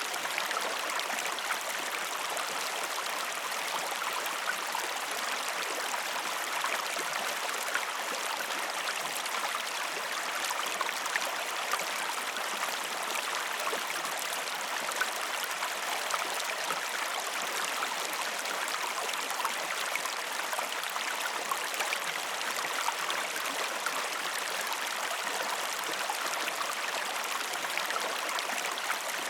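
Stream water flowing steadily, an even rushing with small splashes and drips ticking through it.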